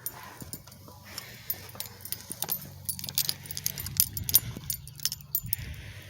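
Light jingling and irregular clicks, metallic in character, running on and off, with a low handling rumble in the middle.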